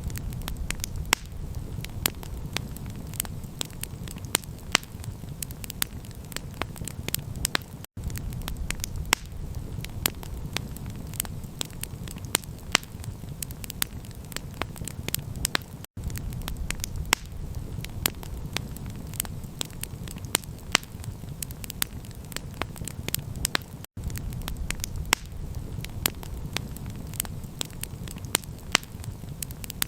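Wood campfire crackling, with frequent sharp pops over a steady low rumble of the burning fire. The sound cuts out for an instant about every eight seconds.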